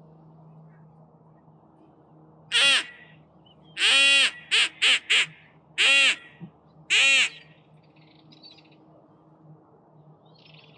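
Duck call blown in a broken series of loud, nasal quacks: a single call, a long one, three quick short ones, then two more spaced about a second apart, as used to call ducks in.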